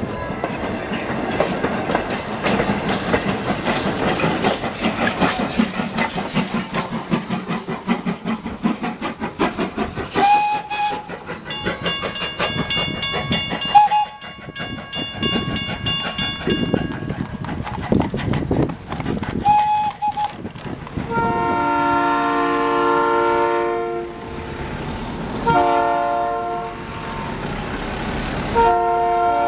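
Passenger coaches clattering over the rail joints as a train rolls past, followed by a few short whistle toots. Near the end a diesel locomotive's horn sounds several multi-note blasts.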